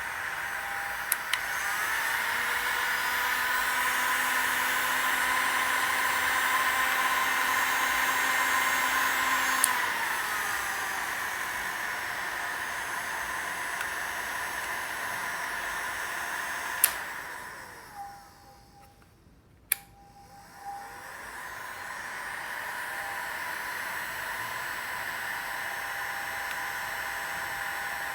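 Bosch hair dryer running, which the owner says is in fully working condition. It steps up to a louder, higher setting after clicks about two seconds in and drops back down near ten seconds. It is clicked off around seventeen seconds and winds down almost to silence, then is clicked back on and runs steadily again.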